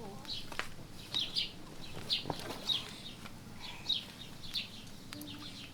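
A small bird chirping over and over, short high chirps about one to two a second, with a faint click or two.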